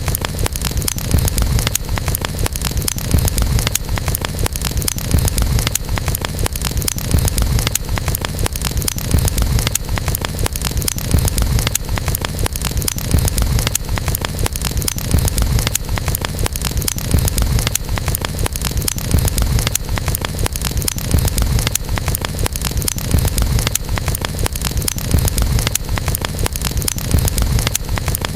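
Wood campfire crackling: dense, irregular pops and snaps over a steady low rumble.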